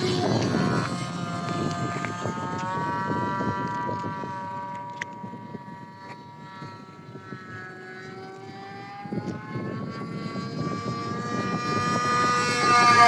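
A 7.5cc model-aircraft IC engine buzzing as the RC plane flies. Its pitch slides down and back up as the plane passes and turns. It grows fainter around the middle, then louder again, and rises sharply in pitch near the end.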